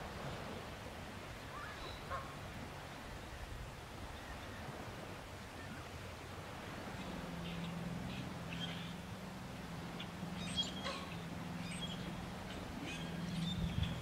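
Wild birds calling here and there in short, scattered calls, with a low steady hum coming in about halfway through.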